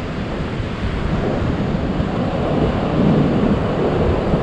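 Ocean surf washing in, with wind buffeting the microphone: a steady rushing noise that swells a little about three seconds in.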